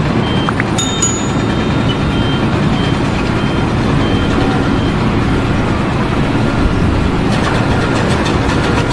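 Heavy machinery or a truck running with a loud, steady noise. A short high beep repeats about every half second and fades out about five seconds in, and there is a sharp click about a second in.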